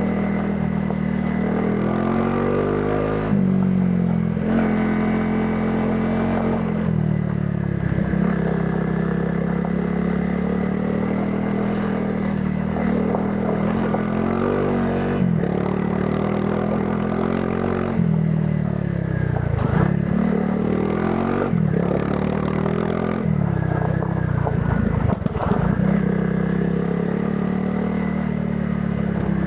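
Honda CRF300 Rally's single-cylinder four-stroke engine running through its stock exhaust while ridden off-road. Its pitch falls and rises again several times as the throttle is rolled off and on and gears change, with some rattling.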